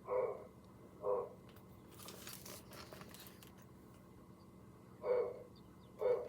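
Recorded snowy owl calls played back through a small speaker: four short, low calls, two close together at the start and two more about five seconds in, with a faint rustling in between.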